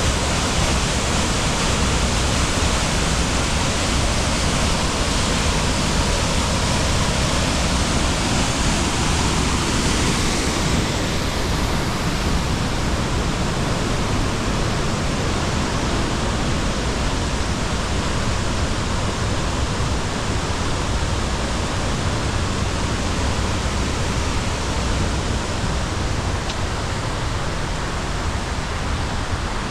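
Mountain waterfall pouring, a steady, even rush of falling water with no breaks, its hiss easing slightly about ten seconds in.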